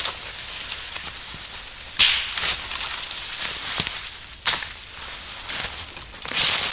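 Dry wood crackling, with a few sharper snaps: about two seconds in, halfway through, and near the end.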